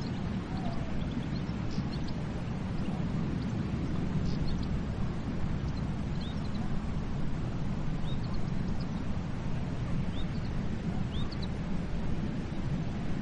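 Steady low rumble of sea surf, with short high bird chirps scattered through it every second or two.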